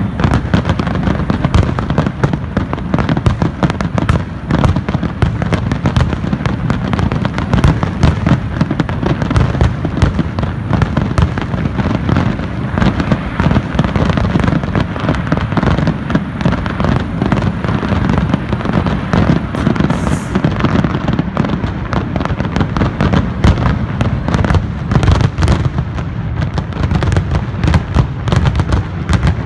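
Aerial fireworks bursting in a rapid, unbroken barrage of booms and crackles.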